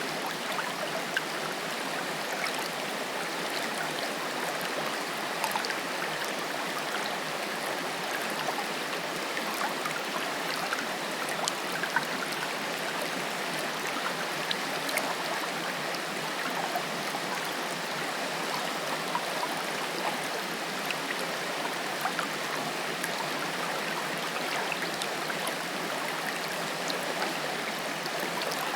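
Water of a small forest waterfall or stream rushing and splashing over rocks, a steady even rush with small splashes and drips scattered through it.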